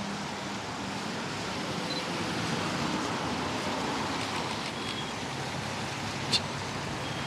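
Bus passing on a wet street, its tyres hissing on the wet road, with the sound swelling in the middle and easing off. A single sharp click about six seconds in.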